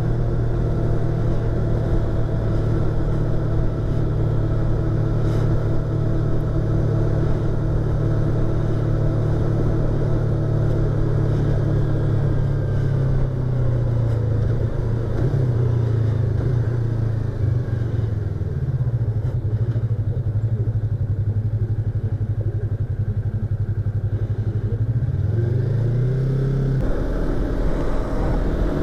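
Yamaha YZF-R25's parallel-twin engine and exhaust running while riding, heard from inside the rider's helmet. The engine note holds steady, wavers down and back up a few times past halfway, and drops then climbs again near the end.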